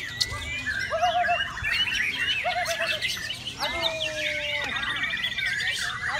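Many caged songbirds singing at once in a songbird contest, a dense overlapping mix of whistles, chirps and arched notes, with a rapid high trill running for about a second midway.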